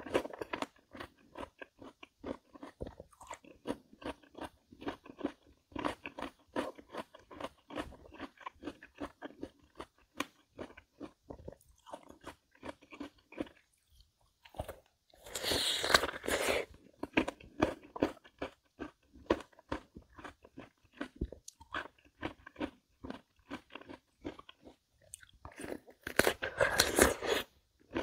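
Someone chewing crisp Korean melon (chamoe) in a run of short, wet crunches. There are two louder, longer crunching bites, one about halfway through and one near the end.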